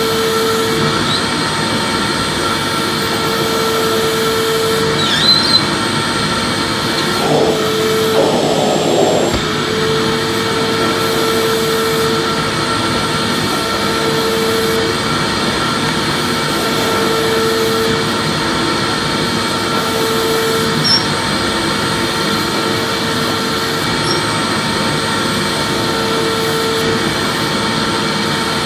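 Vacuum cleaner motor running steadily: a continuous dense whooshing hum with a lower tone that cuts in and out every second or two.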